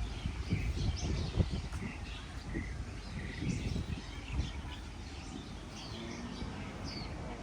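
Several small birds chirping in short, quick calls, on and off throughout. Low thumps and rumble come through in the first few seconds, the loudest about one and a half seconds in.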